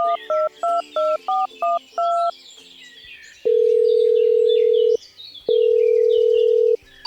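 A phone number is dialled on a touch-tone keypad: about seven quick two-note beeps in the first two seconds. Then comes the ringback tone, two long steady tones of about a second and a half each, as the call connects and rings.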